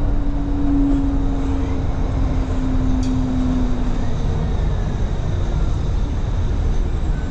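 Inside a moving city bus: the bus's engine and drivetrain run with a steady low rumble. A held hum over the rumble fades out about four seconds in.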